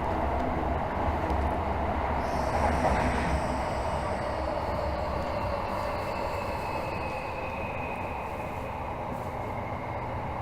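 Tokyo Metro 13000 series subway train running, heard from inside the car: a steady rumble of wheels and running gear, with faint high thin squealing tones coming and going. It grows gradually quieter.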